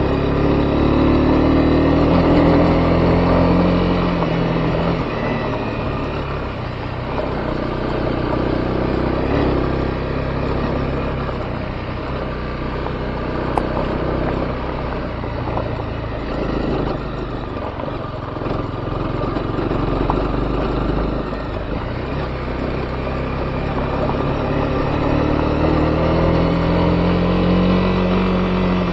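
Honda CB250R's single-cylinder engine running as the motorcycle is ridden, its pitch rising and falling with the throttle.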